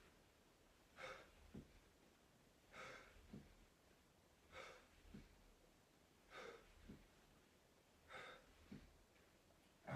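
Faint, hard rhythmic breathing from a person exercising. A breath comes about every 1.8 seconds, six in all, and each is followed about half a second later by a short low thud.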